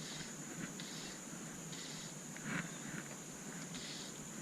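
Quiet outdoor ambience: a steady high-pitched insect buzz with soft, short rustles of hiss recurring about once a second.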